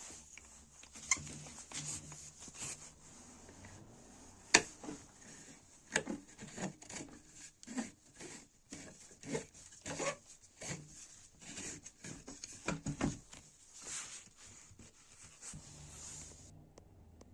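Irregular knocks, taps and rubbing of hard objects being handled, with a few sharper clicks, over a faint steady hiss that stops suddenly near the end.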